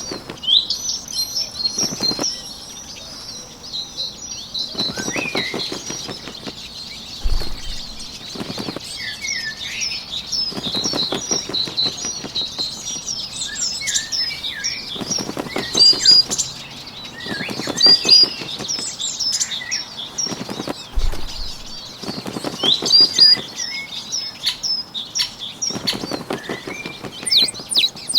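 Bird wing flapping in short fluttering bursts every two to three seconds, over continuous chirping and trilling of small songbirds.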